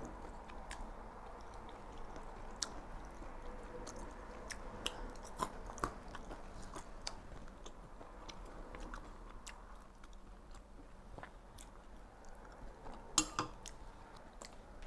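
Close-up chewing of a Vietnamese spring roll: soft, scattered mouth clicks, with a louder bite near the end.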